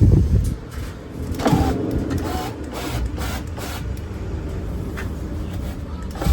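Electric window motor in a Mercedes truck's driver's door running, winding the glass up, from about a second and a half in; a knock at the start and a sharp click near the end.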